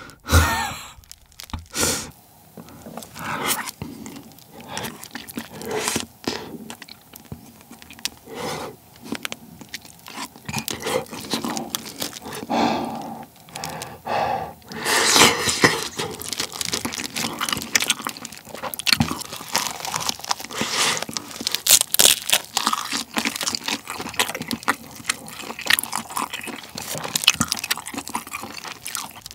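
Close-miked eating sounds: bites and crunchy, wet chewing of kimbap and cup ramen noodles. The crackling chewing grows denser and louder about halfway through.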